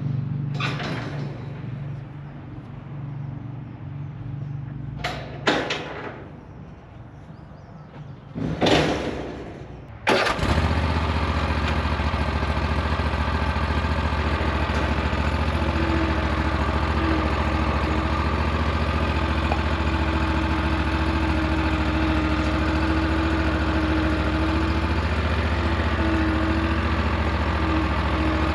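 A few knocks and clunks, then an engine starts abruptly about ten seconds in and runs at a steady idle.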